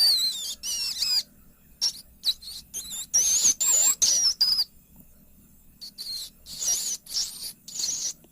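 Rat squeaking: a string of short, high-pitched squeaks, some wavering in pitch, in three bouts with short pauses between them.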